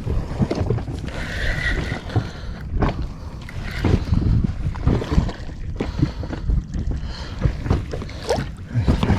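Water slapping and lapping against the hull of a small inflatable boat, with irregular knocks and wind buffeting the microphone.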